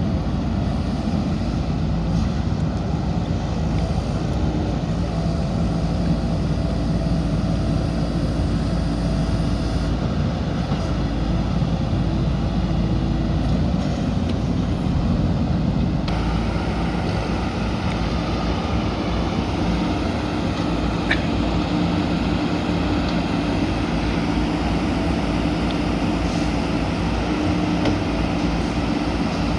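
Diesel engine of a JCB backhoe loader running steadily under working load, a loud continuous drone whose note changes abruptly about halfway through.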